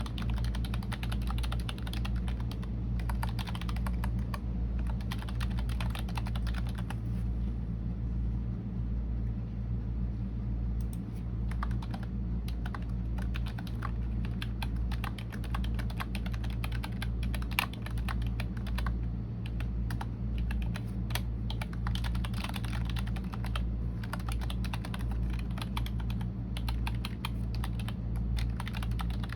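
Typing on a computer keyboard: a fast, continuous run of keystroke clicks that thins to a few scattered keys for a few seconds about a third of the way in, then picks up again, over a steady low hum.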